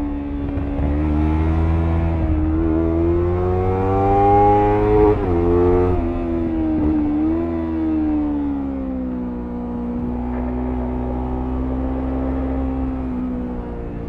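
Kawasaki Ninja 300's parallel-twin engine under way. Its revs climb for the first five seconds, drop sharply about five seconds in at a gear change, and dip again about seven seconds in. After that it eases off into a steady, slowly falling note.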